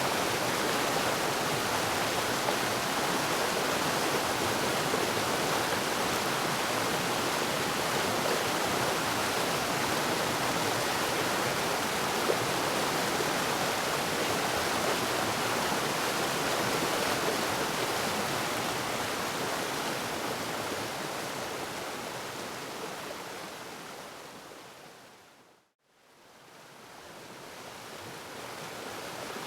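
Waterfall water rushing in a steady, even roar of noise. Near the end it fades away to silence for a moment and swells back up, like a join in a looped recording.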